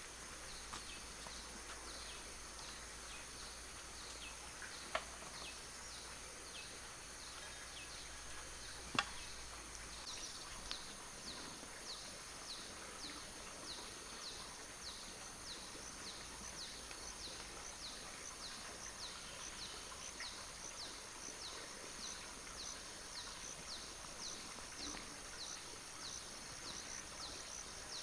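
Rural outdoor ambience: a steady high insect hum with a small animal's high chirp repeated about twice a second, clearer from about ten seconds in. Two sharp clicks, about five and nine seconds in.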